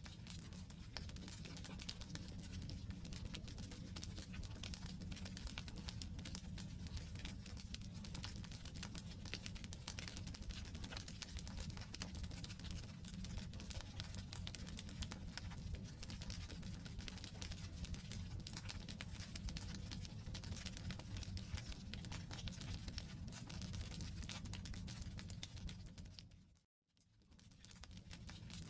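Wood campfire burning: a dense, steady crackle of small pops and snaps over a low rumble of the flames. Near the end the sound drops out briefly and fades back in.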